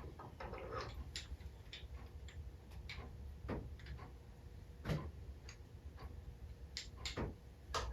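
Light, irregular clicks and taps of small engine parts being handled and fitted by hand, with a slightly louder knock about five seconds in and another near seven seconds.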